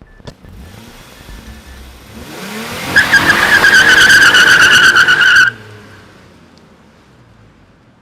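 Car engine revving as the car pulls away, with the tyres squealing loudly for a couple of seconds in a high, steady screech that cuts off abruptly.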